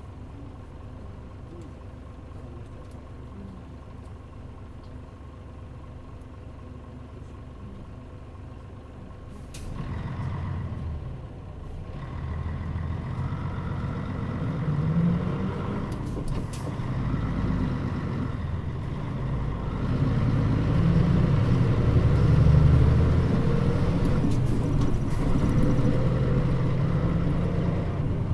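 Mitsubishi Fuso Aero Star (KL-MP35JM) bus diesel engine idling steadily at a stop. About ten seconds in there is a burst of air hiss, then the bus pulls away. The engine grows louder and rises in pitch as it accelerates through its gears.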